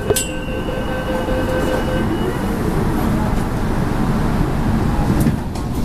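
Interior of an MTR K-stock (Rotem) electric train: the doors shut with a sharp knock at the start, a steady high tone stops about two seconds in, and the low rumble of the running train carries on.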